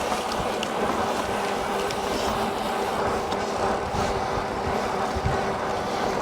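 Steady rush of wind and tyre noise on the microphone from a moving e-bike, with a faint steady whine underneath.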